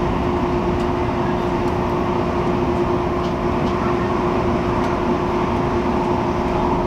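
Steady running noise inside the cabin of an MTR Airport Express CAF train: a low rumble with a constant hum over it.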